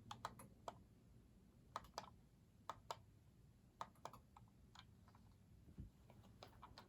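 Faint, irregularly spaced light clicks and ticks over a low steady hum as a 52-inch Lasko ceiling fan coasts down after being switched off.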